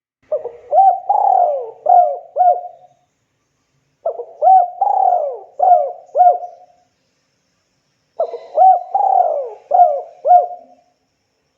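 Spotted dove (tekukur) singing its cooing song three times, each phrase a quick run of about five coos lasting a couple of seconds, with short pauses between phrases.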